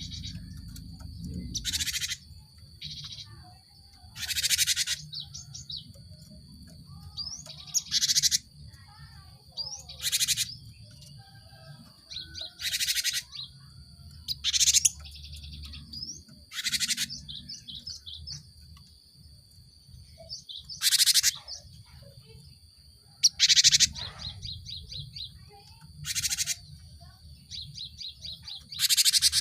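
Cinereous tit (gelatik batu) calling: a loud, short, harsh call about every two seconds, with quicker runs of thin high notes between them.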